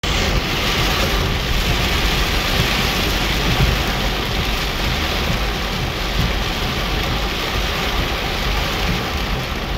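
Heavy rain beating on a car's windshield and roof, heard from inside the moving car as a steady, dense hiss over the low rumble of the car on the flooded road.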